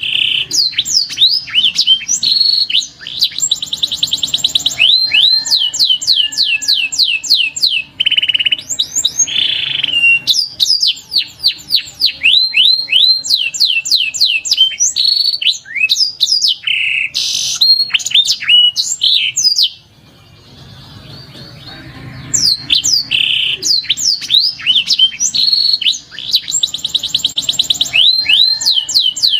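Domestic canary singing: a long song of quick rising and falling whistled notes and fast rolling trills, breaking off for about two seconds two-thirds of the way through.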